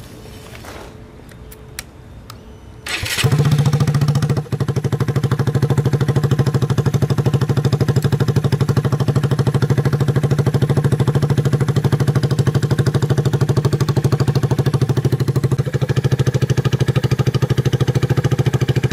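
Honda Grom's 125cc single-cylinder engine: a few light clicks, then it starts about three seconds in, dips briefly a second later, and settles into a steady, evenly pulsing idle.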